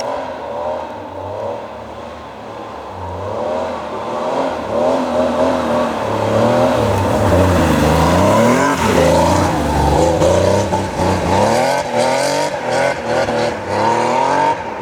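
Historic Porsche racing car engines at speed, getting louder toward the middle with the pitch dropping and rising. Near the end comes a series of short rising revs, each cut off by a gear change.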